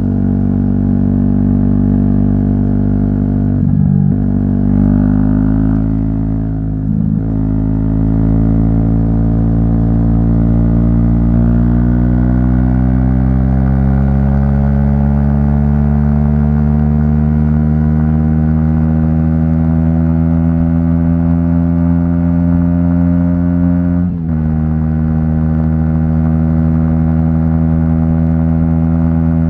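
An Aprilia SX 125's single-cylinder four-stroke engine running loud through an Arrow aftermarket exhaust while the bike is ridden. The revs dip briefly twice in the first seven seconds as gears change, then climb slowly and steadily for about fifteen seconds. With about five seconds left the revs drop suddenly at an upshift and then hold steady.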